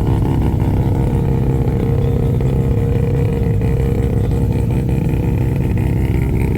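A car engine running steadily at an even speed, without revving.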